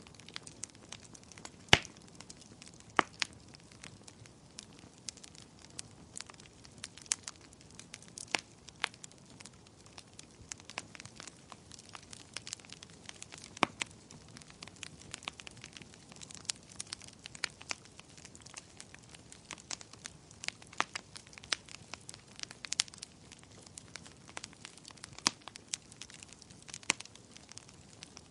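Wood fire in a fireplace crackling, with frequent sharp pops and snaps over a soft steady hiss; the loudest pop comes about two seconds in.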